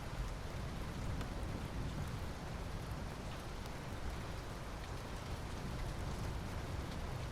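Steady rain falling, with a dense patter of individual drops on surfaces over an even hiss.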